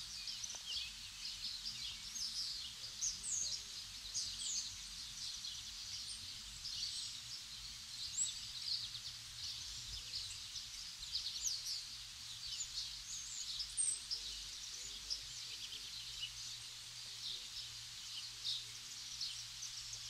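A chorus of small songbirds chirping and singing without pause, many short high calls overlapping.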